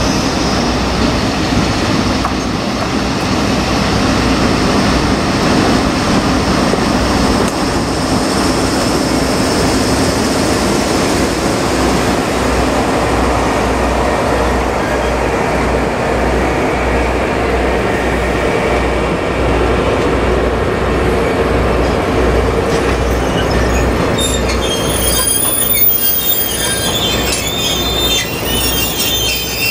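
An EF65 electric locomotive and its 24-series sleeper coaches roll slowly into the station, the wheels running on the rails with a steady, pulsing rumble. From about three-quarters of the way in, high-pitched squealing comes from the wheels and brakes as the train slows for its stop.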